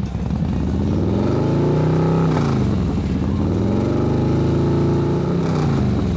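Motorcycle engines running, their pitch swelling up and falling back twice, first about two seconds in and again near the end, as the bikes accelerate and pass.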